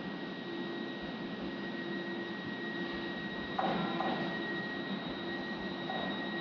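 Steady electrical hum with a constant high whine, and a brief louder tone about three and a half seconds in.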